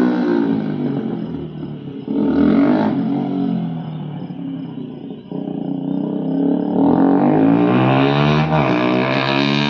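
Bajaj Pulsar NS200's single-cylinder engine revving through an open Akrapovic exhaust with the dB killer removed. The revs jump sharply about two seconds in and fall away, then climb again about seven seconds in and are held high.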